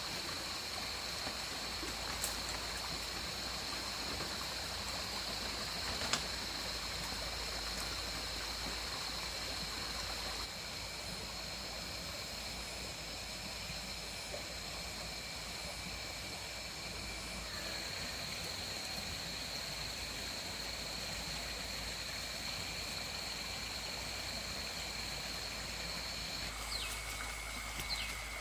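Steady running water, like a small stream, with a high, steady whine held over it throughout. A few short chirps come near the end.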